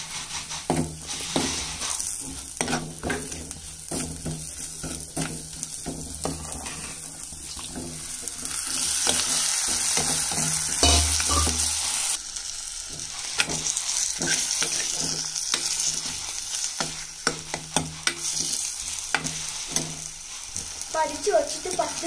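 Onions and spices frying in a clay pot, with a steel spoon scraping and knocking against it as it stirs. About eight seconds in the sizzle grows louder and hissier as raw chicken pieces go into the hot oil, with a dull thump a few seconds later.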